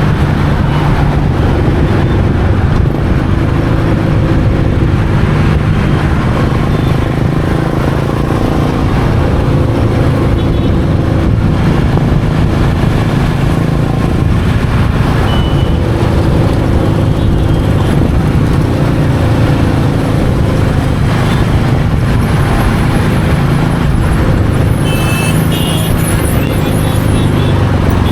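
Royal Enfield Meteor 350's single-cylinder engine running steadily under way, with road and traffic noise.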